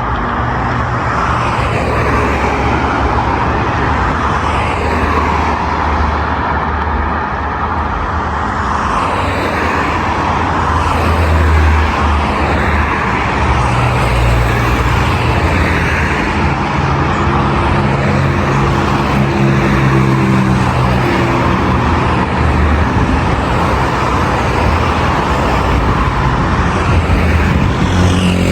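Steady road traffic on a busy multi-lane boulevard: cars passing one after another over a continuous hum of engines and tyres. A deeper engine drone from a larger vehicle is heard through the middle.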